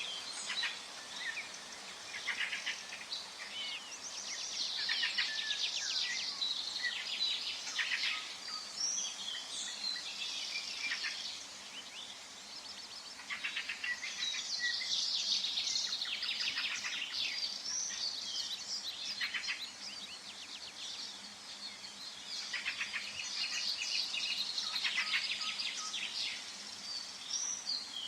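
Forest birdsong: phrases of rapid trilling song, each a few seconds long, follow one another with short pauses between them over a faint steady background hiss.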